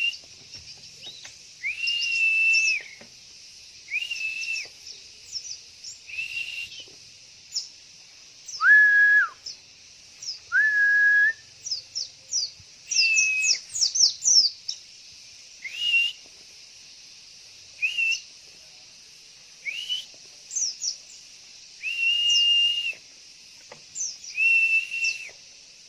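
Songbirds calling: a clear whistled note, held from half a second to a second, repeats about every two seconds, with quick high chirps in between. Twice near the middle the whistle comes lower.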